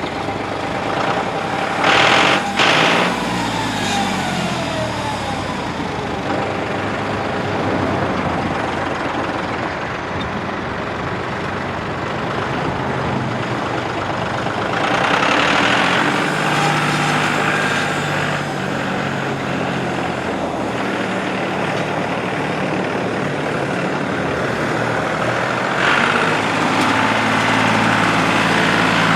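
John Deere 5303's three-cylinder turbo diesel running just after starting. Its pitch swings up and down in the first few seconds, then rises and gets louder in steps as the throttle is raised, about halfway through and again near the end.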